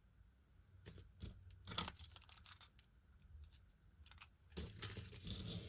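Costume jewelry pieces clinking and jingling faintly as they are handled, a scatter of small clicks with a longer jingle near the end.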